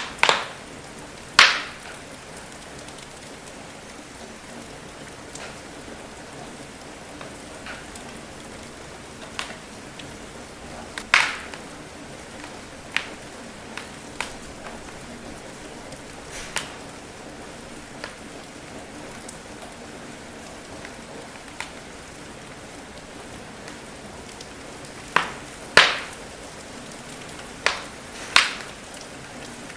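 Steady rain hiss with sharp, irregular pops from a crackling wood fire every few seconds, the loudest ones near the start and toward the end.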